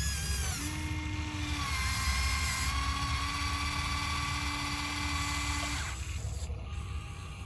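Small electric motors of radio-controlled construction models whining in spurts: a steady whine starts about half a second in, stops after about a second, then runs again for about three seconds, over a low rumble.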